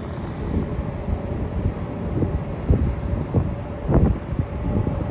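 Wind buffeting the microphone in irregular gusts, over a faint steady hum of distant jet aircraft.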